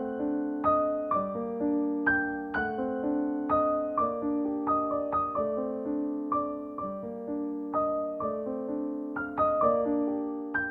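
Background piano music: a slow melody of single struck notes over held lower notes, a new note about every half second, each fading after it is struck.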